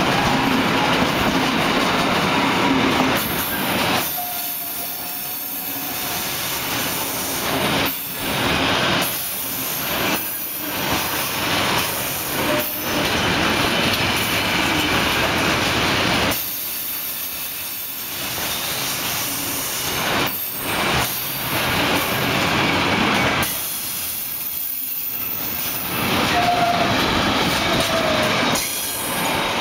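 Container wagons of a freight train rolling past at speed, wheels rattling on the rails. The noise swells and drops every few seconds as the wagons go by, with a few brief wheel squeals.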